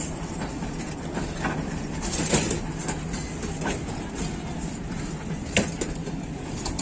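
Passenger coaches of a departing train rolling past, a steady rumble of wheels on the track. Sharp clacks of wheels crossing rail joints come about two seconds in and again a little after five seconds.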